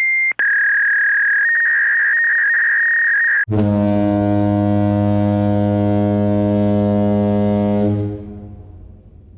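Two electronic sound effects from a phone's sound-effect library in a row: a steady high beep lasting about three seconds, then a low buzzing tone that holds for about four seconds and fades out near the end.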